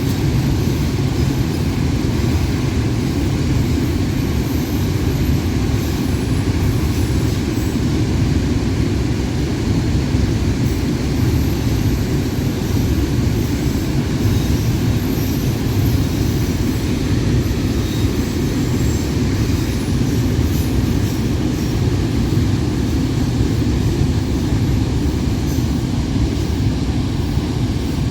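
Freight train rolling past on the track, a steady low rumble of wheels and cars that keeps up without a break.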